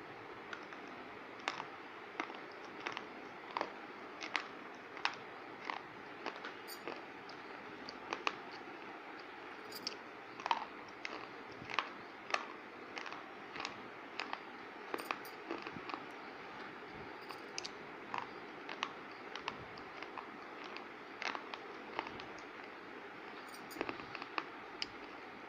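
Fast, irregular crunching: sharp crackling clicks, about one or two a second, some louder than others, over a steady hiss.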